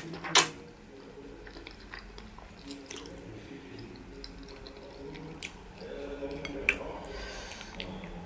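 Wet mouth sounds of eating soft pounded yam fufu with soup: two loud lip smacks right at the start as a handful goes into the mouth, then quiet chewing with scattered small smacks and clicks.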